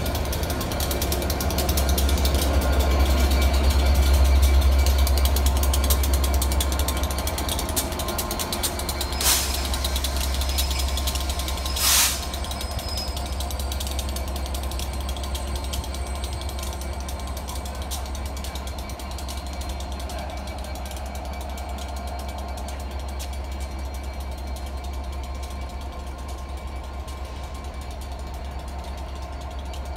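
A Colas Rail test train of coaches and a Class 67 diesel locomotive rolling past, its wheels rattling and creaking on the track. It is loudest a few seconds in, then slowly fades. Two sharp clicks come about nine and twelve seconds in.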